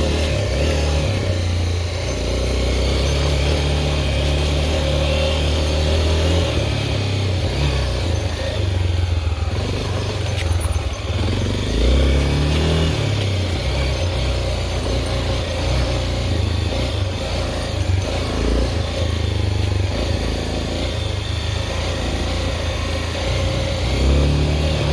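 Honda XR 250 Tornado's single-cylinder four-stroke engine running under way, its pitch rising and falling with the throttle, over a steady rushing noise.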